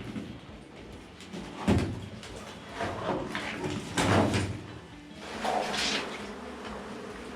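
A few sharp knocks with scraping and handling noise between them, from work inside the steel drum of a concrete truck as a honey bee hive is cut out by hand.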